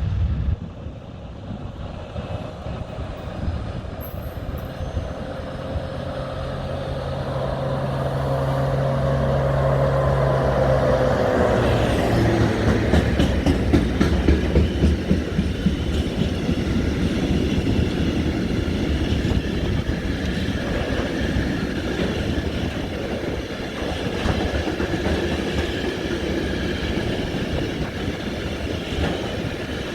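A train passing on the rails. It grows louder over the first ten seconds with a whine that drops in pitch about eleven seconds in. Then comes a steady rumble and clatter of the wagons' wheels going by.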